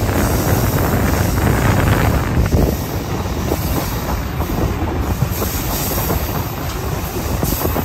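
Passenger train hauled by an MLW M420W diesel locomotive running on the rails, its wheels clacking over the track.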